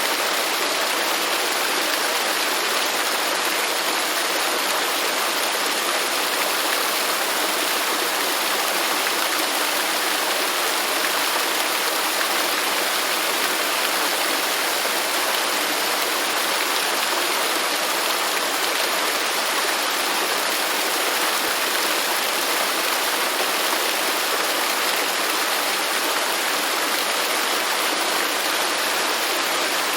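Waterfall: falling water rushing in a steady, even hiss with no change.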